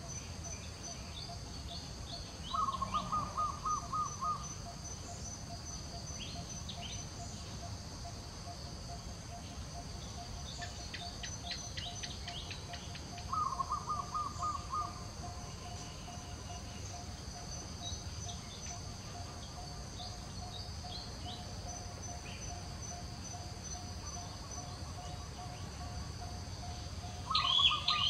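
Forest ambience: a bird calls a rapid run of short notes three times, over a steady insect drone, with scattered high chirps.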